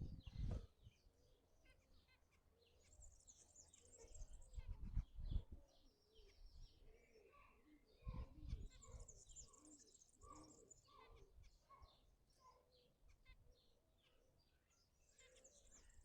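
Faint bird chirping and twittering, with three high twittering bouts: about three seconds in, around nine to ten seconds, and near the end. A few soft low thumps fall among them.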